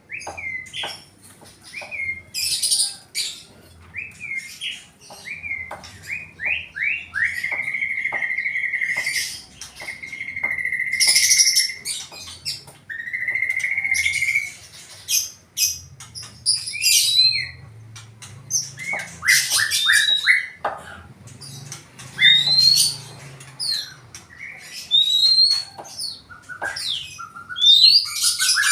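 Songbird singing a long, varied song: quick runs of sweeping notes, drawn-out trills held at one pitch, and sharp high chirps, broken by short pauses.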